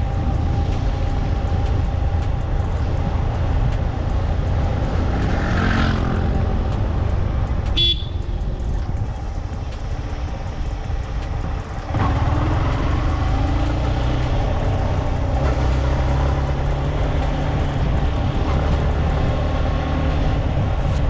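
Motorcycle on the move: steady engine and wind rumble. A short horn toot about eight seconds in, and the engine pulls harder from about twelve seconds.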